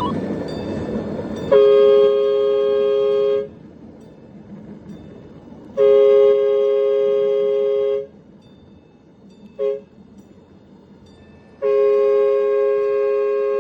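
Locomotive horn of a 1/8-scale ridable Union Pacific SD70ACE diesel, a two-note chord, sounding two long blasts, a short one and a long one: the grade-crossing signal.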